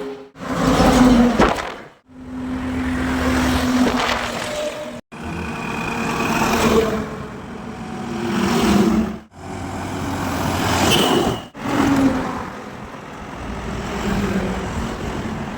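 Highway traffic: trucks and other vehicles passing, engine and tyre noise swelling and fading as each goes by. The sound cuts out abruptly several times between passes.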